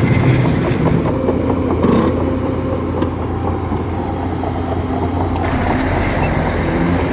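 Bulldozer's diesel engine running steadily, with a few short metallic knocks and clanks over it.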